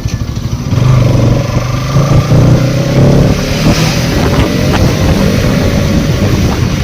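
Motorcycle engine running while riding, getting louder about a second in and then holding steady.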